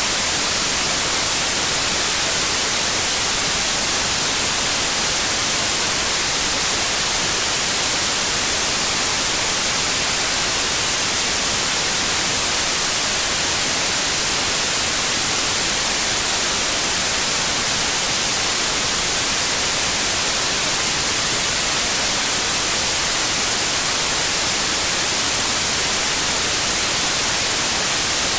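Steady, unchanging white noise: an even hiss, strongest in the treble, with no sudden sounds or changes in volume.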